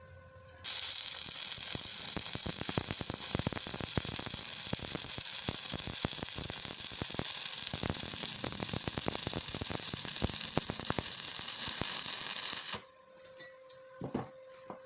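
Welding arc crackling and hissing steadily for about twelve seconds, striking suddenly about a second in and cut off abruptly near the end, followed by a few faint clicks.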